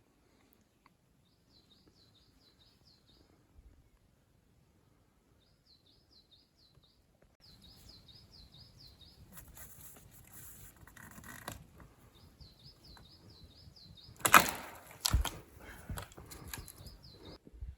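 A small bird singing a short, repeated high trilled phrase in several bouts, over rustling. About fourteen seconds in a loud knock rings out, followed by a few smaller knocks.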